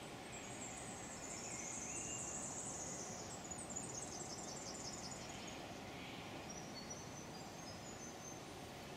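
Small songbird singing rapid, high-pitched twittering trills for the first few seconds, then a few fainter high notes, over steady low outdoor background noise.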